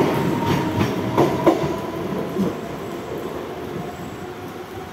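Mumbai suburban EMU local train running out of the platform: its wheels clack over the rail joints several times in the first second and a half, with a thin steady tone, then the sound fades away as the last coaches leave.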